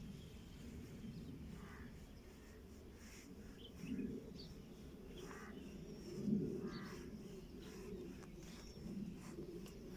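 Birds calling: short low calls come and go, loudest about four and six seconds in, with scattered brief high chirps.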